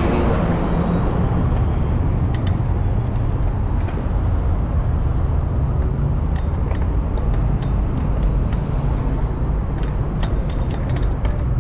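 Road traffic on a busy city avenue, heard while riding among it: a steady rumble of cars with no single vehicle standing out.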